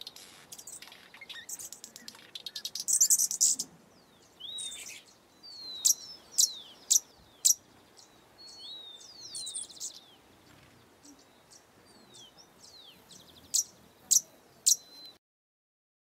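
Small birds calling: a rapid buzzy chattering series in the first few seconds, then sharp, high chips that sweep downward, four in quick succession about six to seven and a half seconds in and three more near the end, among softer whistled notes. The calls stop abruptly.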